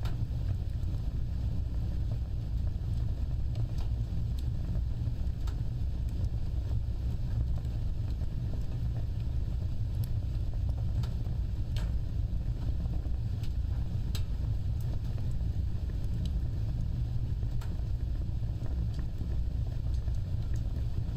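Wood fire burning with a steady low rumble of flames and scattered sharp crackles and pops every few seconds.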